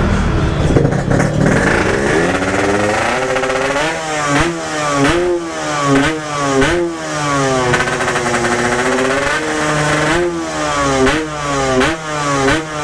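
Yamaha RX-King's single-cylinder two-stroke engine being revved. From about two seconds in, the throttle is blipped again and again, each rev rising sharply and falling back. One rev is held longer in the middle.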